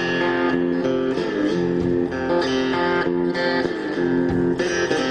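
Blues guitar playing an instrumental break: a repeating riff of plucked and strummed chords, the notes changing every second or so.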